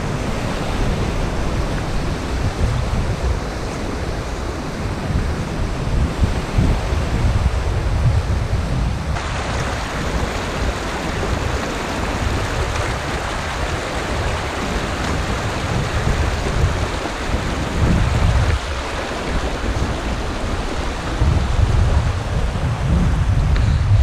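Strong wind buffeting the microphone in uneven gusts, over a steady rushing noise that grows louder about nine seconds in.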